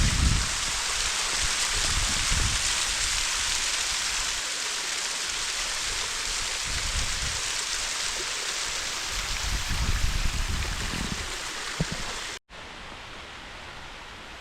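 Waterfall pouring over a cliff, a steady rushing hiss, with a few brief low rumbles on top. It cuts off abruptly about 12 seconds in, then returns as a quieter, steady hiss.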